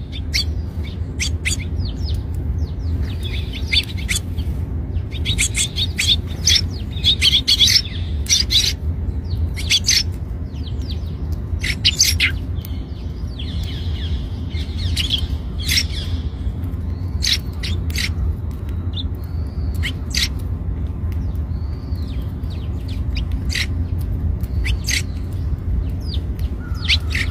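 Eurasian tree sparrow chirping: short, sharp chirps in scattered bursts, busiest in the first third, over a steady low rumble.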